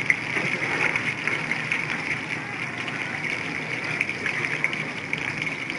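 Chicken lollipops deep-frying in hot oil: a steady sizzle with dense fine crackling.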